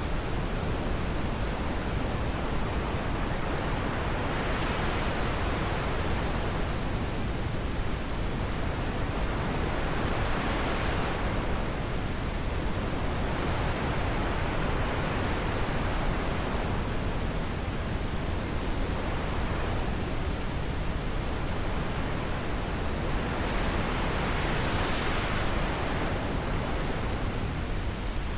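Steady wind blowing, a full even rush that swells in soft gusts every five or six seconds.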